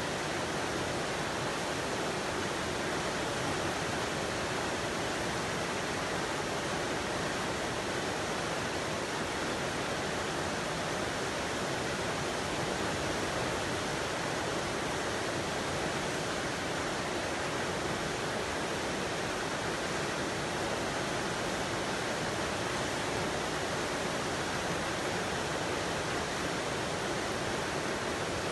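Running water: a steady, even rushing that never changes in level.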